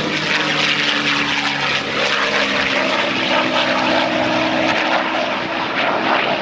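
A P-51 Mustang's Merlin V12 engine and propeller drone steadily as it flies past, the pitch dropping slightly about two seconds in.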